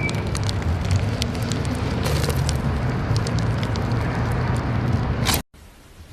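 Slime being squeezed and worked by hand: a dense run of small sticky crackles and clicks over a steady low rumble. It cuts off suddenly about five and a half seconds in, and quieter, scattered clicks follow.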